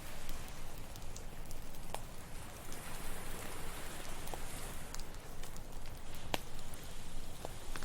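Campfire crackling, with scattered sharp pops, over a steady wash of ocean surf.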